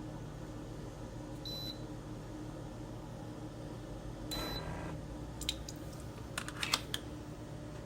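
Small appliance humming steadily, with two short high beeps, about a second and a half in and about four seconds in, then a few sharp clicks near the end; most likely the single-serve pod coffee maker's control beeps and button clicks.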